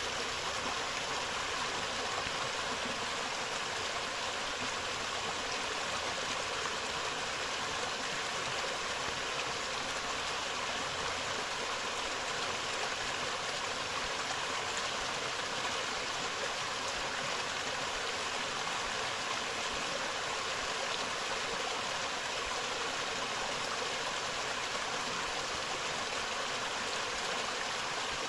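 Forest stream flowing steadily over rocks, a constant rushing of water.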